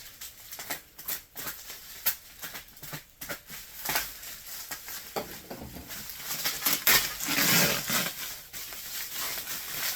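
Rustling and scattered clicks of objects being handled by hand, growing denser and louder from about four seconds in and loudest a little past the middle.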